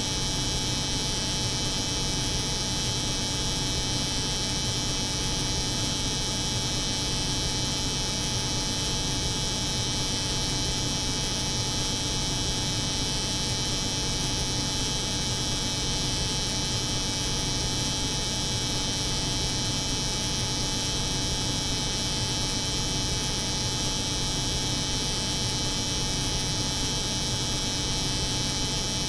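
Layered steady drone of an electric hair clipper's buzz over a cold room's hum, running unchanged, with a low hum and a bright hiss high up.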